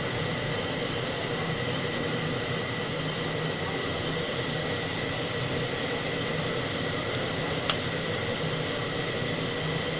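TIG welding arc on carbon steel: a steady, even hiss with a faint high tone held under it. One sharp tick about three-quarters of the way through.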